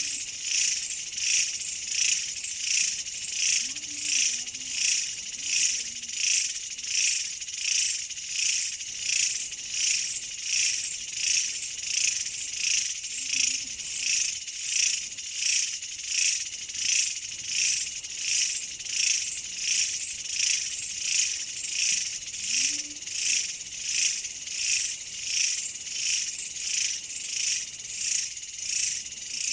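Chorus of insects singing, a dense high-pitched trill that swells and fades in a steady pulse about one and a half times a second.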